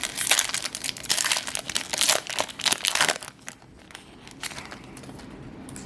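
Foil Yu-Gi-Oh! booster pack wrapper crinkling as it is handled and torn open, for about three seconds, then going quieter with a few light rustles and clicks.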